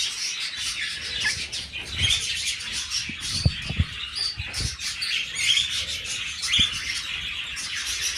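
Cockatiels chirping, a dense run of short, overlapping high chirps. A few soft low thumps come in the middle.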